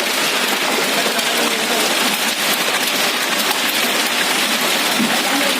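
Hailstorm: hailstones and rain falling hard, a dense, steady patter of countless small impacts on surfaces.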